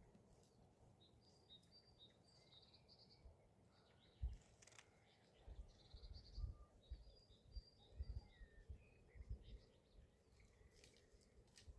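Faint birdsong: scattered short chirps and tweets from small birds, over low intermittent rumbles.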